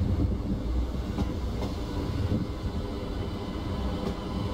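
Passenger train rolling slowly past with a steady low rumble, and a few sharp clicks from the wheels and running gear.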